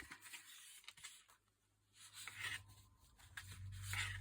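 Faint paper rustling and handling as a needle and thread are worked through a notebook's pierced sewing hole, with two brief louder rustles in the second half, over a low steady hum.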